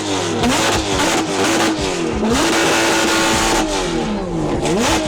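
Lamborghini Aventador SVJ V12 revved hard through an aftermarket exhaust. It blips up and down several times, holds high revs for about a second in the middle, then drops and climbs sharply again near the end.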